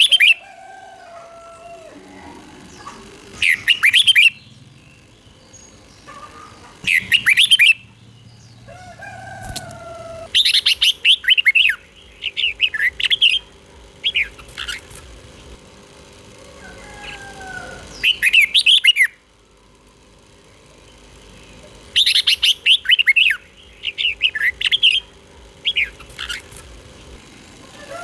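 Red-whiskered bulbul singing: short, bright phrases of quick notes, each about a second long, repeated with pauses between them, with fainter lower calls in the gaps.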